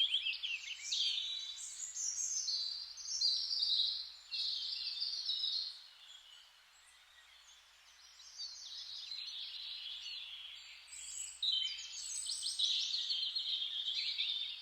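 Songbirds singing a run of quick, high phrases, with a lull of about two seconds near the middle.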